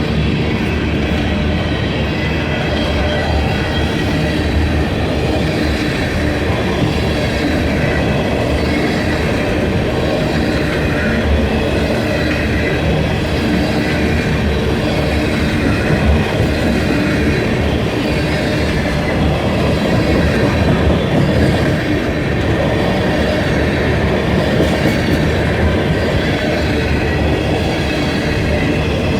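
Union Pacific freight train rolling past at close range: a steady, loud rumble and clatter of wagon wheels over the rail joints, with a faint high squeal from the wheels.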